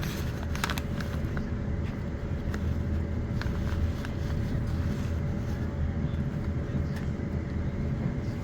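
Running noise of a Class 450 Desiro electric multiple unit in motion, heard from inside: a steady low rumble of wheels on track, with a faint steady tone and scattered light clicks.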